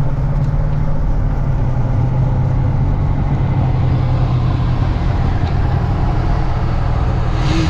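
A car engine running steadily with a low, even drone. A rush of higher-pitched noise comes in near the end.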